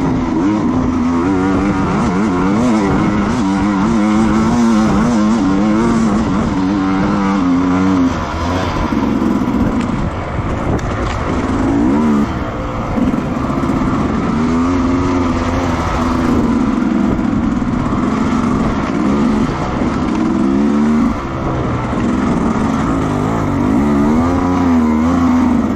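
Racing motorcycle engines at full throttle, pitch climbing and dropping again and again through gear changes, with several bikes sounding at once.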